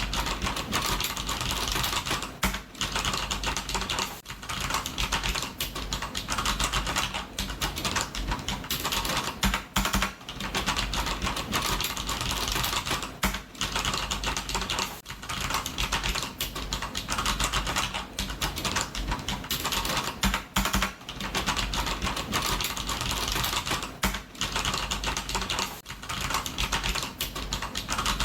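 Computer keyboard typing: fast, continuous keystrokes clattering, with brief pauses every second or two.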